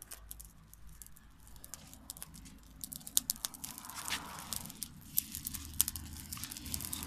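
Wood bonfire crackling, with irregular sharp pops and snaps that come thicker and louder from about three seconds in.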